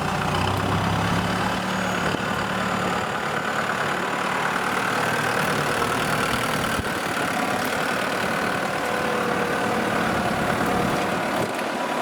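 Kubota M6040SU tractor's diesel engine running steadily.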